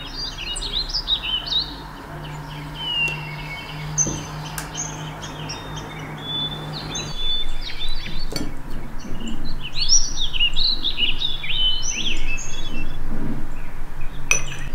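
Several small birds chirping in quick, overlapping calls, busiest near the start and again in the second half, over a steady low hum, with a few sharp clicks.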